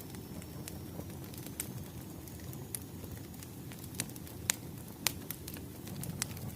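Wood fire crackling: a steady low rumble of burning logs with irregular sharp pops and snaps, a few louder ones about four to five seconds in.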